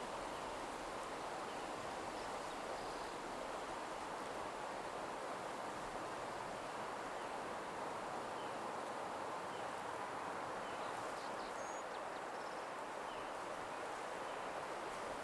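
Soft, steady nature-ambience hiss, with a few faint, high, short bird chirps now and then.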